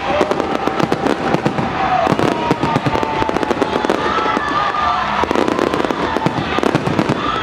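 Fireworks display going off: a dense, continuous run of crackles, pops and bangs.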